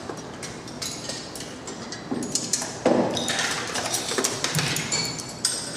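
Metal hand tools and engine parts clinking and knocking as an engine is taken apart in a hurry, with a few short metallic pings.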